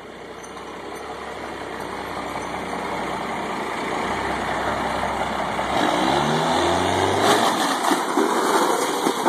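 Cummins diesel truck engine revving harder and louder under load as it pulls on a van's front end, the pitch shifting about two-thirds of the way in. Sharp knocks and cracks come near the end as the front end starts to tear loose.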